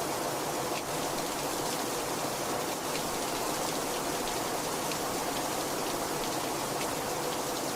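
Steady heavy rain, an even hiss with scattered individual drops ticking through it.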